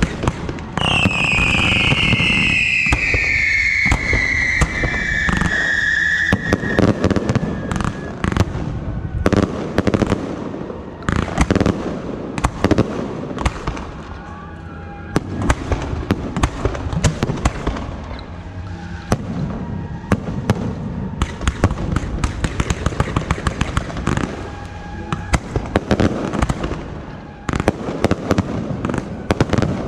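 Fireworks and firecrackers going off in a dense, continuous string of loud cracks and bangs. Over the first several seconds a long whistle falls in pitch above the crackling.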